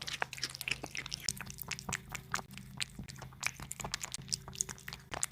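A cat eating meat: quick wet smacking and chewing clicks, several a second, over a steady low hum.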